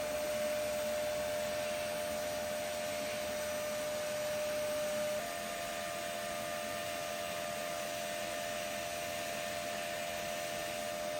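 TIG welding arc running the hot pass on steel pipe at about 140 amps: a steady hiss with a steady whining tone. About five seconds in, the tone shifts slightly in pitch and the sound gets a little quieter.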